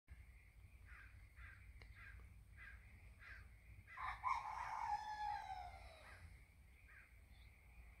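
Birds calling: a run of short calls repeated about every half second, then a louder, drawn-out call that starts about four seconds in and falls in pitch over two seconds.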